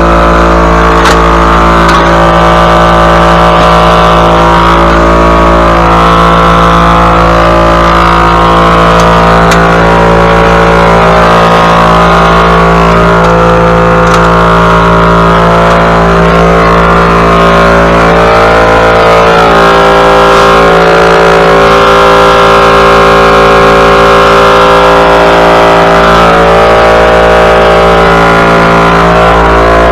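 Small gasoline engine running steadily and loud at a constant speed.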